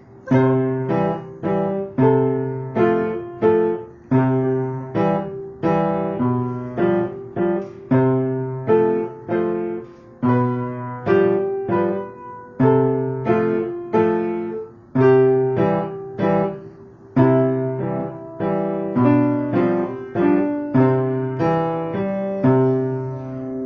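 Piano played by a kindergarten-age child: a simple children's melody of about two notes a second over held left-hand bass notes, at an even tempo.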